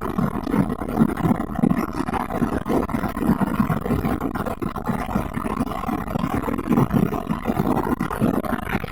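Lada Priora's 1.6-litre 16-valve VAZ-21126 engine running steadily as the car drives, its exhaust carrying an insert in place of the catalytic converter.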